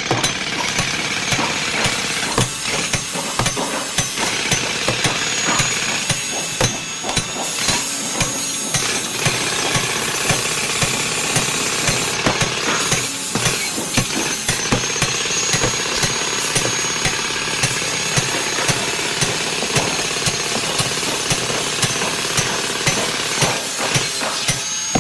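Heavy machinery running, with sharp hammering knocks repeating a few times a second over a dense, steady mechanical noise.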